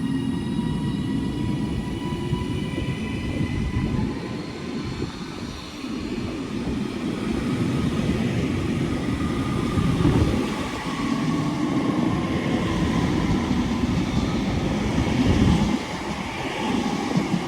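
Electric multiple-unit passenger train running on the line. A whine of steady tones from its traction motors fades over the first few seconds, then a louder rumble of wheels on rail builds through the middle and end.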